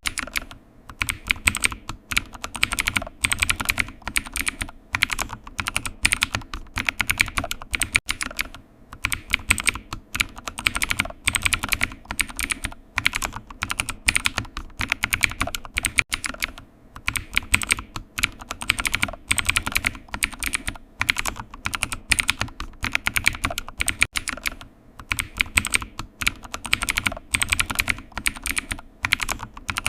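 Computer keyboard typing: quick irregular runs of key clicks with short pauses between bursts.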